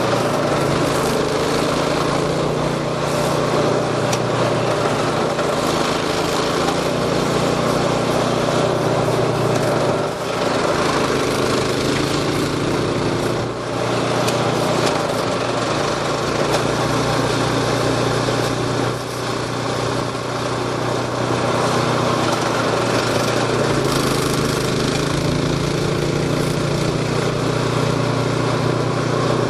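Engine of a snow-clearing machine running steadily under load, its pitch shifting slightly, with brief dips in level about ten, thirteen and nineteen seconds in.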